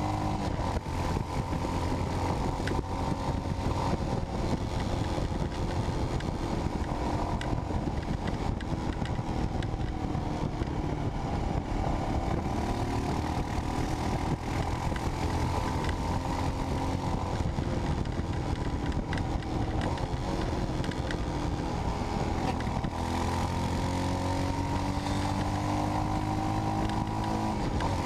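Royal Enfield Himalayan's single-cylinder engine running through a Red Rooster aftermarket end can while the bike is ridden on the road. The revs sag and rise with the riding and climb again near the end.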